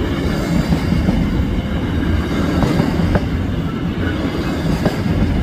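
Wagons of a long, heavy freight train rolling past close by: a steady rumble of wheels on rail with a few faint clicks.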